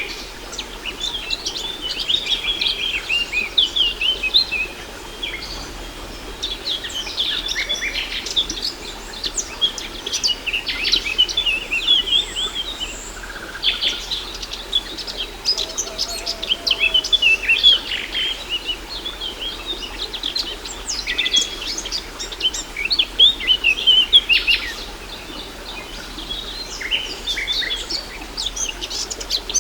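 Many songbirds chirping and singing together in a dense, continuous chorus of quick high notes and trills, over a soft steady rush of falling water.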